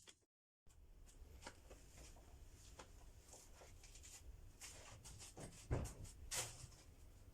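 Faint rustling and scattered small clicks of handling, with two louder knocks about six seconds in.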